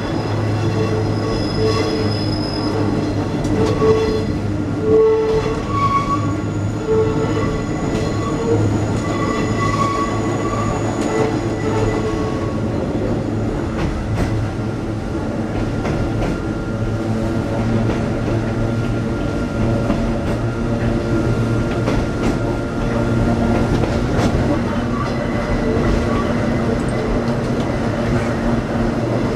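Hakone Tozan Railway electric car Moha 114 running on the mountain line, heard from inside the cab: a steady low hum and rumble of wheels and motors. High, thin squealing tones from the wheels come and go through the first half, and a steadier tone sounds in the second half.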